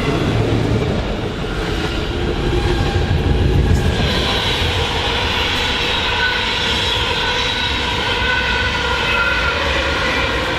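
A train passing close by, a steady loud rumble with a ringing high whine that gets stronger about four seconds in.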